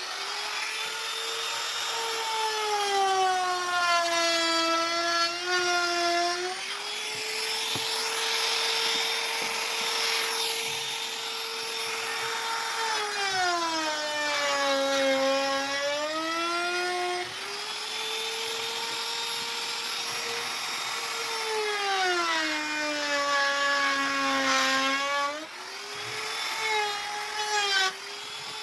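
Electric woodworking power tool running steadily, its motor slowing and dropping in pitch three times as it cuts through wood, then speeding back up between cuts.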